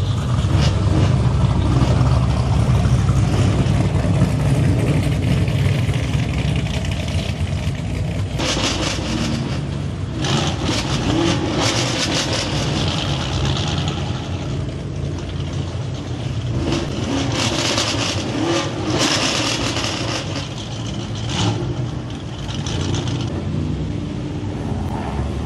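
Car engine and exhaust running with a loud, steady low rumble, joined by repeated bursts of rough hissing noise from about eight seconds in.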